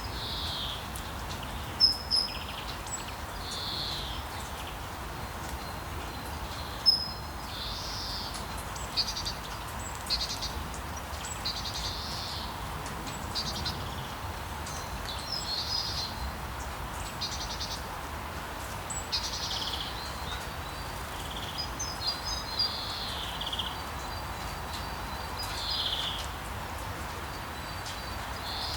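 Steady rain hiss with birds chirping, short calls repeating every second or two. Two sharp clicks stand out, about two seconds and seven seconds in.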